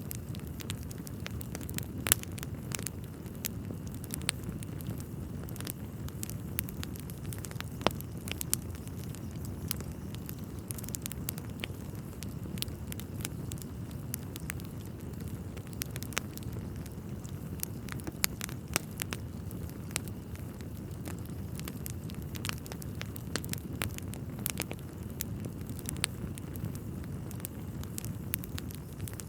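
Wood fire burning in a fireplace: a steady low rush of flames with frequent sharp crackles and occasional louder pops of burning logs.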